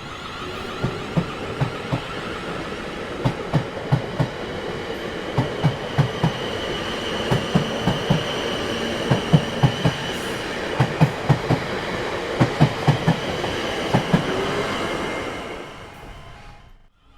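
A train rolling past over rail joints: a steady rumble with repeated clickety-clack knocks from the wheels, in quick groups of two to four, and a high steady whine above it. It fades out near the end.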